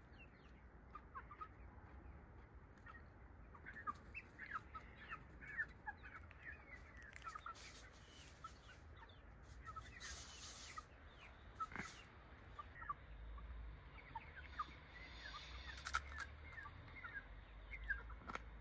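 Faint outdoor birdsong: chickens clucking and small birds chirping in short scattered calls, with a few soft clicks.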